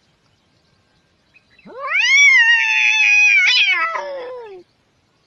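A cat gives one long, drawn-out yowl about a second and a half in. It rises quickly, holds high with a brief upward catch, then slides down before stopping.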